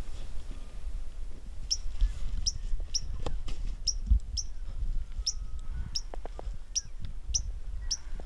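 A small bird repeating a short, sharp, high chip note about twice a second, starting a couple of seconds in. Beneath it runs a steady low rumble with a few soft thumps.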